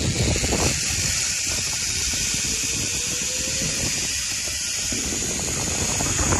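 Zipline trolley running fast along a steel cable: a steady, loud, high hiss and whir.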